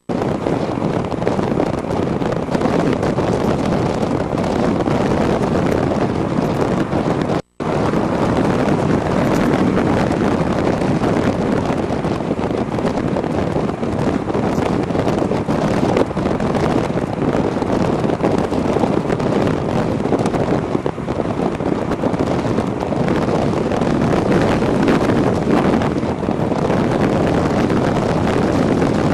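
Steady rush of wind over the microphone of a camera on an e-bike riding along, with road and drive noise under it. The sound drops out completely for a split second about seven and a half seconds in.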